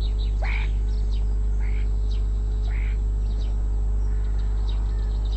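Garden birds calling, a string of short chirps and whistles, some sliding downward, about one every half second to second, over a steady low hum.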